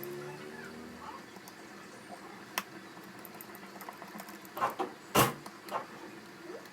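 Laptop parts being handled on a bench: a sharp click, then a short run of knocks and taps, the loudest about five seconds in. In the first second a low multi-tone hum fades out.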